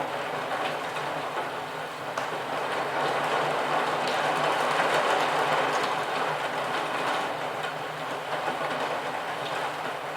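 Steady rain hiss with scattered drop ticks over a low steady rumble, swelling louder through the middle and easing off again.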